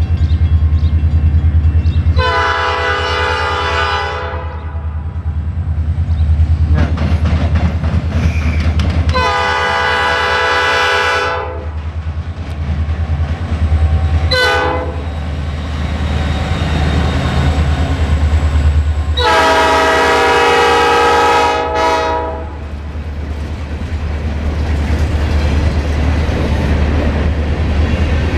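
Norfolk Southern diesel locomotive sounding its horn in the long-long-short-long grade-crossing pattern, over the steady low rumble of its diesel engine. Wheels clack over the rails as the train rolls past.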